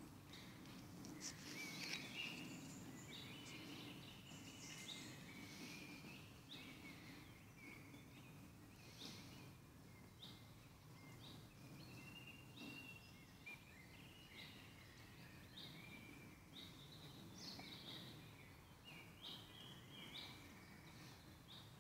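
Faint woodland birdsong: several birds giving short chirps and trills again and again, over quiet steady background noise.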